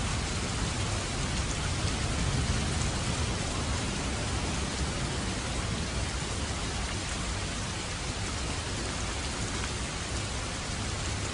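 Steady rain falling, an even hiss of many drops, with a low rumble swelling a second or two in.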